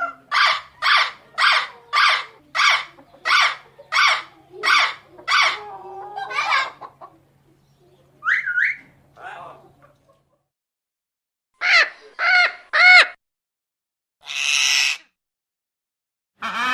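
A parrot vocalising. It gives a run of about a dozen short, evenly spaced pitched calls, roughly two a second. After a pause come a rising call, then three quick calls, and a short noisy burst near the end.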